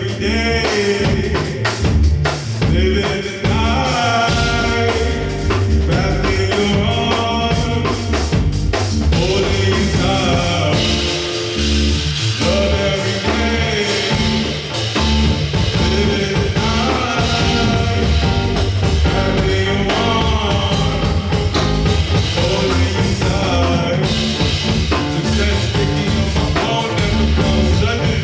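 Live band playing a song with drums, bass and other instruments, with singing at times.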